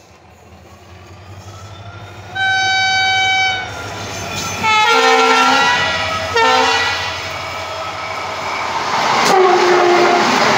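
Vande Bharat Express train approaching and rushing past at speed, its rumble and wheel noise swelling to a loud rush in the last few seconds. Train horns sound through the approach: one long blast about two seconds in, a deeper blast around five seconds and a short one at six and a half, and a last horn near the end that drops slightly in pitch as the train passes.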